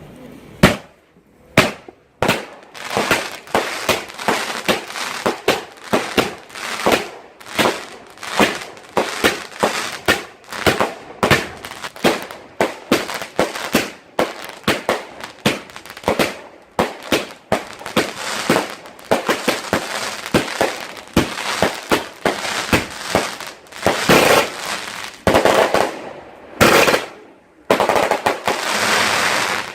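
Fireworks going off in quick succession, sharp bangs with crackling tails, several a second, one loud bang about a second in, then a dense barrage that runs almost to the end. It is the finale of the display.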